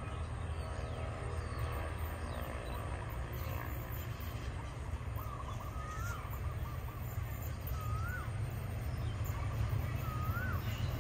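A bird whistles a short rising-and-falling note three times, about two seconds apart in the second half, over a steady low rumble.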